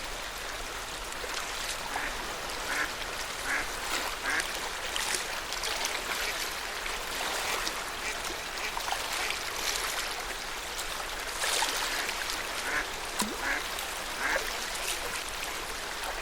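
Ducks quacking in short calls, several in quick succession now and then, over the steady wash of lake water lapping.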